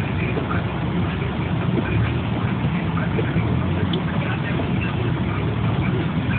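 Car engine running steadily at low revs as the car creeps backwards through deep snow.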